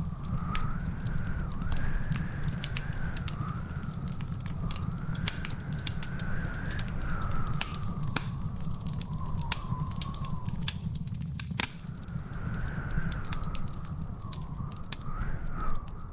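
Wood fire crackling in a fireplace: frequent sharp pops and snaps over a steady low rumble, with one louder pop about two thirds of the way in. A faint wavering whistle-like tone runs underneath.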